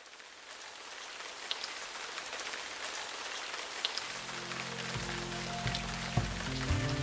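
Rain falling, a steady hiss with scattered drop ticks that fades in and grows louder. Low sustained music notes come in about four seconds in and build beneath it.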